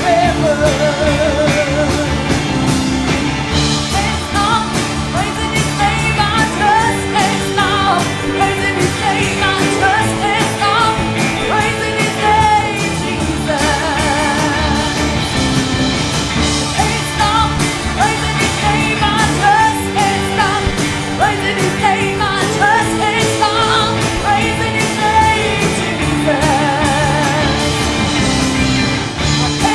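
Church worship music played by a live band, with voices singing over sustained chords and a steady drum beat.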